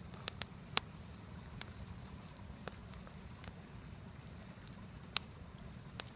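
Wood bonfire crackling: sharp, irregular pops, about seven of them, over a steady low rumble of the burning fire.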